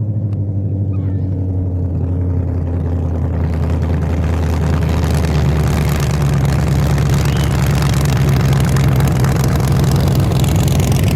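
Race truck's engine running, growing gradually louder, with a rushing noise that builds from a few seconds in.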